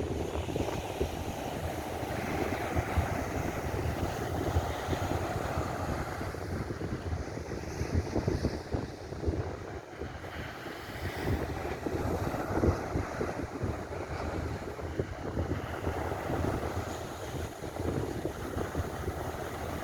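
Ocean surf washing steadily, with heavy wind buffeting the microphone.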